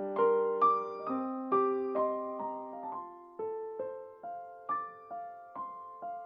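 Soft solo piano music: a slow melody of single struck notes, about two a second, growing quieter toward the end.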